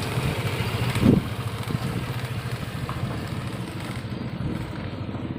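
A motor vehicle engine running steadily at low revs, slowly growing fainter. A single knock sounds about a second in.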